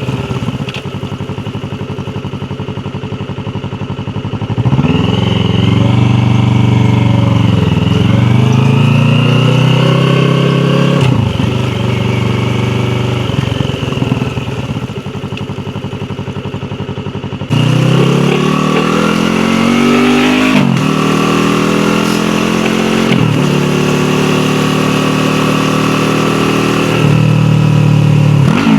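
Yamaha YZF-R3's parallel-twin engine running at low revs for the first few seconds, then revving up hard, with the pitch climbing and dropping back at each upshift. It eases back to a low steady note around the middle, then pulls hard again through several more upshifts, each one a quick drop in pitch.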